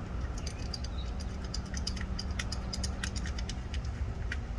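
Light metallic clicks and ticks of a coil-pack retaining bolt being threaded in by hand, several a second, over a steady low hum.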